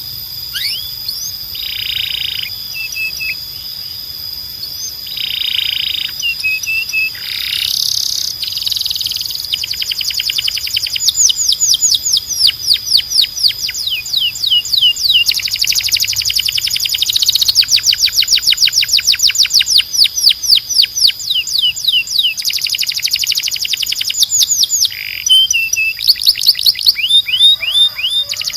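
Canary singing: a long, loud song of fast trills made of rapidly repeated falling whistled notes, sparser in the first seconds and dense from about ten seconds in.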